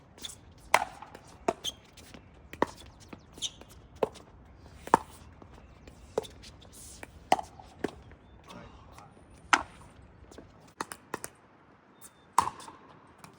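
Pickleball rally: paddles hitting the hollow plastic ball, a dozen or so sharp pops at irregular intervals about a second apart.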